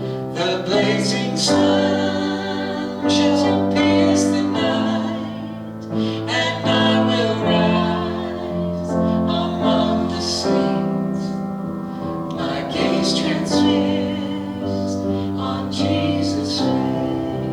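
A slow hymn sung over piano accompaniment, with held notes that change every second or two.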